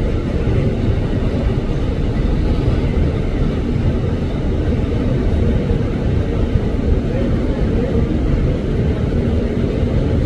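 Airliner jet engines running with a steady low rumble.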